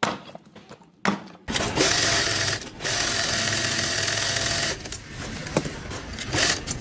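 A small motorised tool whirring steadily for about three seconds, after two sharp knocks, then easing off into softer rattling with a few more knocks.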